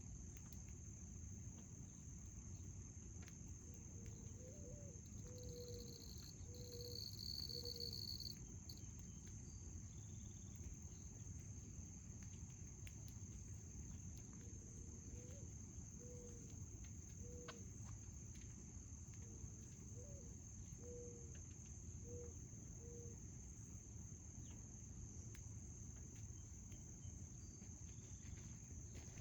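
Crickets chirring in a steady high drone. A bird calls three times in low phrases of four or five short notes.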